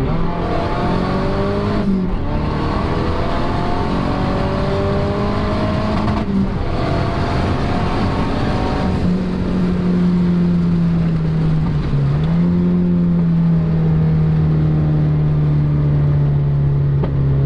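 Mazdaspeed 3's turbocharged four-cylinder engine, fitted with an XS Power turbo manifold, heard from inside the cabin pulling hard through the gears: the engine note climbs, drops at each upshift about two and six seconds in, climbs again, then settles into a steady cruise with a brief dip about twelve seconds in.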